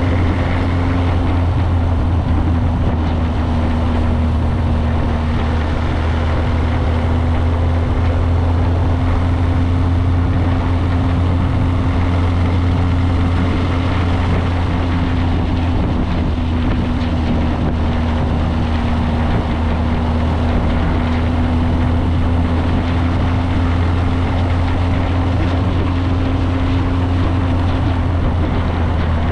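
Motorcycle engine running at a steady cruising speed, with wind rushing over the helmet-mounted action camera's microphone; the engine note holds steady and dips slightly near the end.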